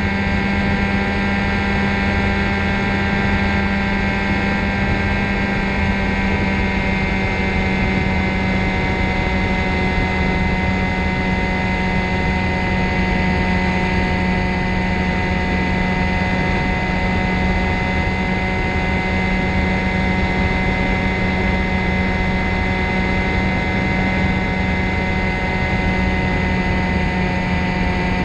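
Ultralight trike's engine and propeller running steadily, with a continuous hum whose pitch eases down slightly a few seconds in.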